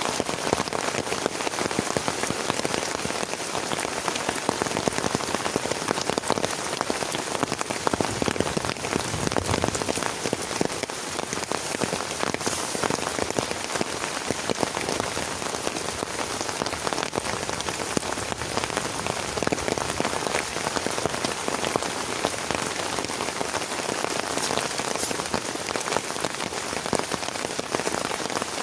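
Heavy rain falling steadily, a dense patter of countless drops striking a surface, with no let-up.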